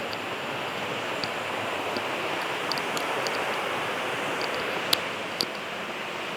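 Waterfall: a steady, even rush of falling water, with scattered sharp clicks, the two loudest about five seconds in.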